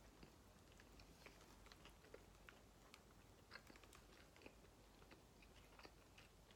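Faint chewing of a mouthful of burger: sparse soft clicks and smacks, barely above near silence.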